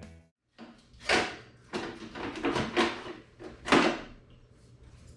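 A series of sharp knocks and clunks from parts and tools being handled during work on the motorcycle muffler: about five distinct knocks, the loudest nearly four seconds in, with quieter handling noise between them.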